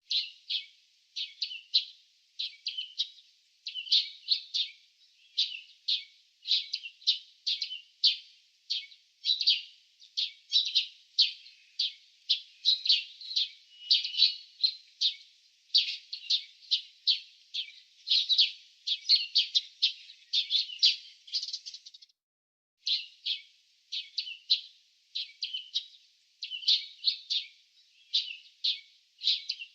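Small birds chirping: a steady stream of short, high chirps in quick succession, with a brief pause about two-thirds of the way through.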